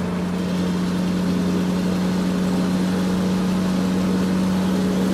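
Steady engine idling, with an unchanging low hum under a noisy rumble. It starts and stops abruptly, like a dropped-in sound effect.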